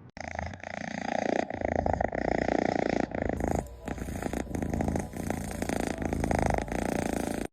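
A domestic cat purring continuously, a rapid steady pulsing, close to the microphone.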